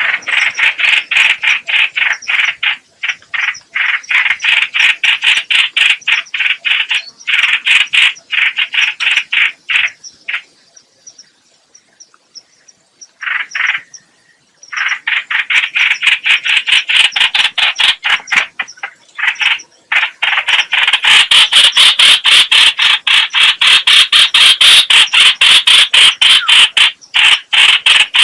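Harsh, rapid chattering of the bird known in Vietnamese as trao trảo (chao chảo, hoành hoạch), played as a lure call for trapping. The notes come several to the second in long runs, fall silent for a few seconds about halfway through, then grow denser and louder in the second half.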